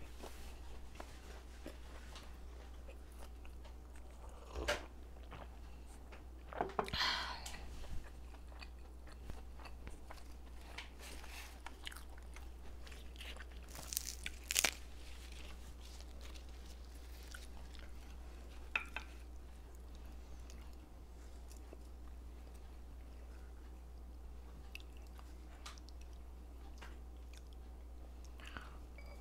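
Close-miked mouth sounds of a person chewing food, with a few sharper crunches scattered through, over a steady low hum.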